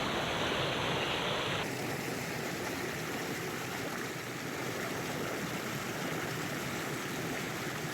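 Mountain river water flowing steadily over rocks, a continuous even rush; its tone shifts slightly about a second and a half in.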